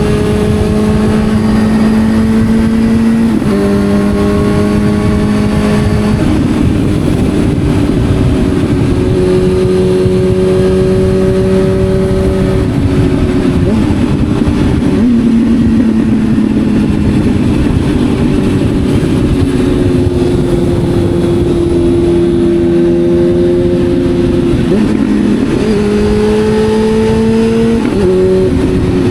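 Motorcycle engine pulling under load, its pitch climbing slowly and then dropping at several gear changes, with steady wind rush over it.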